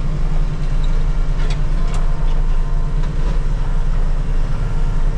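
JCB Teleskid 3TS-8T's diesel engine running steadily under load, driving a FECON hydraulic forestry mulcher through brush. A couple of faint sharp snaps come about one and a half and two seconds in.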